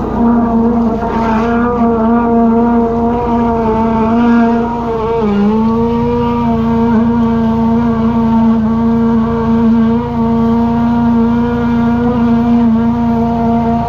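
High-pressure drain jetter's engine running steadily under load, with a steady hum. Its pitch dips briefly about five seconds in and then recovers.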